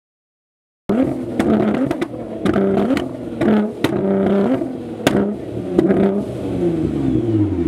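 Nissan GT-R's twin-turbo V6 being revved hard in repeated short blips, starting about a second in, with sharp cracks and pops from the exhaust between revs. Near the end the revs fall away in one long drop.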